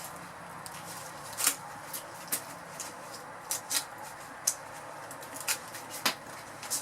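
Scattered light clicks and knocks of small nails and wood pieces being picked out and handled, about seven in all, over a steady faint hiss.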